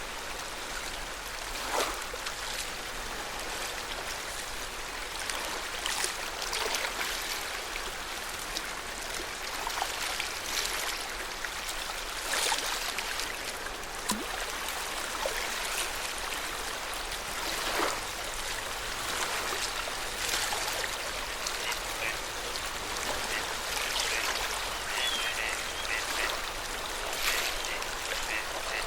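Small waves lapping and splashing against a lakeshore in an uneven, continuous wash. A few short, high calls come near the end.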